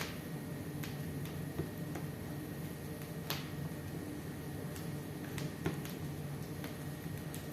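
Wood fire crackling in a fireplace: irregular sharp pops and snaps over a steady low background, the loudest pop near the middle.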